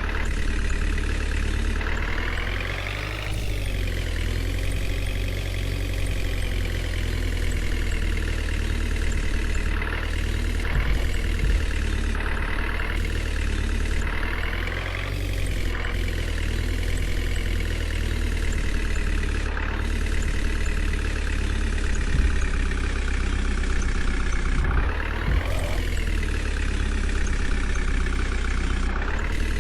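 JCB 3DX backhoe loader's diesel engine running under load, revving up and settling back several times as the machine works, with a few short knocks.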